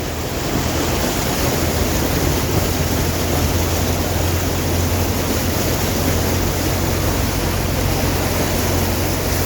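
Fast-flowing floodwater rushing, a steady, even noise with a low steady hum beneath it.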